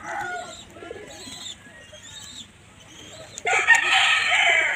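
A bird calling: a loud, harsh, drawn-out call about three and a half seconds in, lasting just over a second, after the end of a similar call at the very start, with faint chirps between.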